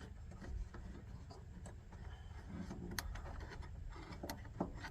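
Faint clicks and light knocks of small heater parts and filter pieces being handled, a few sharp ones in the second half, over a steady low background rumble.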